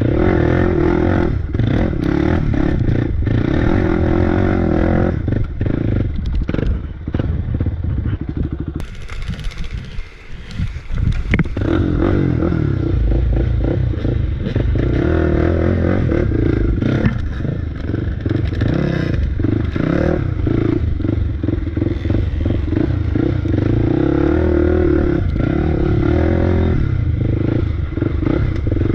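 Off-road bike engine running under changing throttle, revving up and easing off. About a third of the way in it drops back for a second or two, then picks up again. Clattering and knocks from riding over rough ground run throughout.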